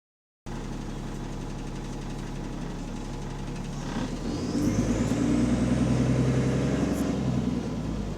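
Bus diesel engine running steadily, then about four seconds in it gets louder under throttle with a rising whine as the bus pulls away, easing off near the end. The bus has an exhaust leak.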